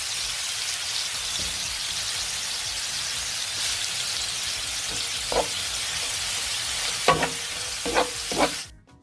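Raw prawns sizzling in hot oil in a wok, a steady hiss, while being stirred. A few short knocks of the stirring utensil against the wok come in the second half, and the sizzle cuts off suddenly just before the end.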